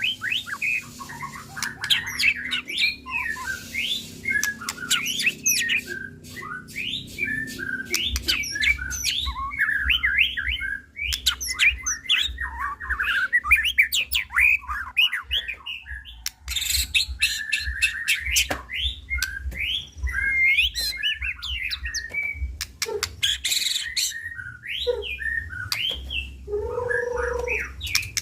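White-rumped shama (murai batu) singing an agitated song: rapid, ever-changing phrases of whistles, trills and sharp chips, packed with mimicked notes from its repertoire. A low hum sits underneath from about a third of the way in, and a short, lower, buzzy call comes near the end.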